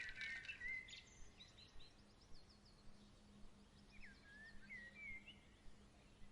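Songbirds chirping and warbling in short gliding calls, with one flurry at the start and another about four seconds in, over a faint steady low hum.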